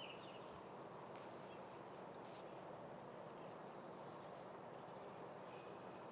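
Faint outdoor ambience: a steady low hiss, with a short bird chirp at the very start and a couple of faint ticks.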